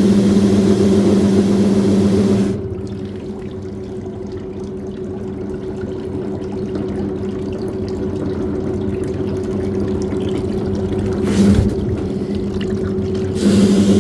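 Washing machine running with water pouring, over a steady motor hum. The louder noise drops away about two and a half seconds in, leaving a quieter steady hum, and starts again near the end.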